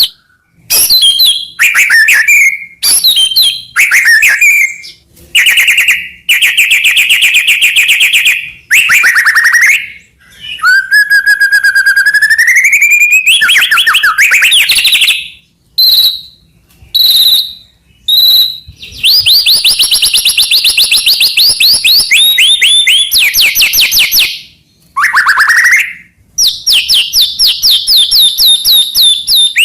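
White-rumped shama (murai batu) singing a loud, varied song: rapid runs of repeated notes, sliding whistles and short sharp notes, in phrases split by brief pauses. The longest run of fast repeated notes comes in the second half.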